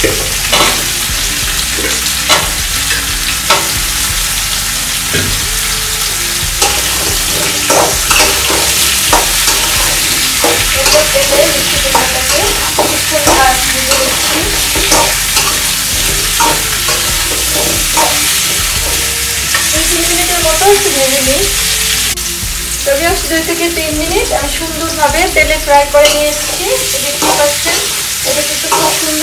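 Pumpkin slices and onion frying in hot oil in an aluminium karahi, sizzling steadily while a metal spoon stirs them with repeated scrapes and clicks against the pan. The stirring gets busier in the last several seconds.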